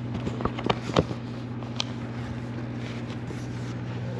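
A steady low hum with a few short, sharp clicks and knocks, the loudest about a second in.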